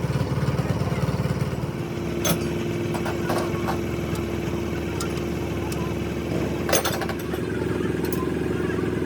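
A motor running steadily, pulsing quickly for the first couple of seconds and then evening out, with a few sharp metallic clinks of tools about two, three and seven seconds in.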